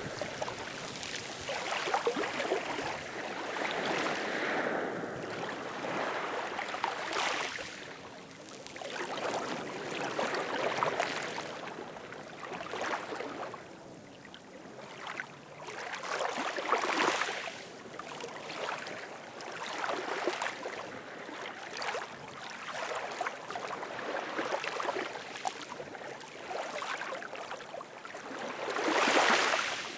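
Ocean waves breaking and washing ashore, the noise swelling and falling away every few seconds, with the loudest surge near the end.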